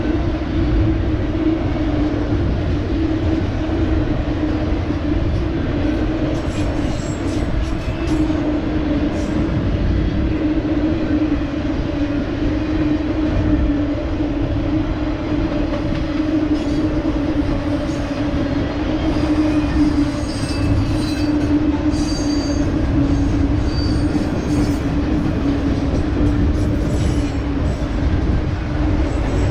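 A train rolling past: a steady, loud rumble with a constant low drone, and brief high wheel squeaks and ticks in the second half.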